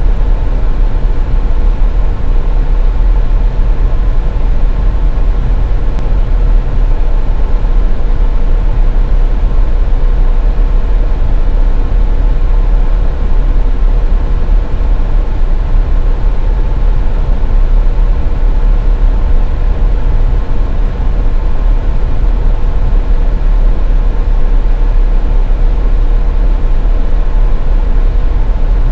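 Steady, loud road noise of a car driving on the highway: a deep, even rumble with a faint steady hum over it.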